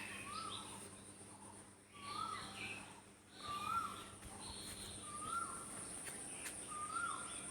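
Birds calling in the morning: one bird repeats a short rising-and-falling call about every one and a half seconds, with other birds chirping higher over a steady high-pitched trill.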